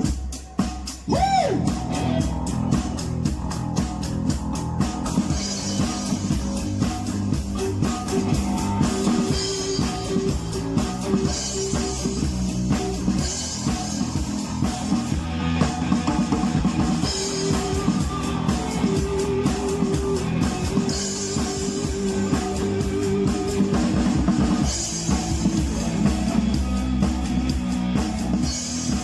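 Rock music with a drum kit, bass and guitar, playing a steady, even beat.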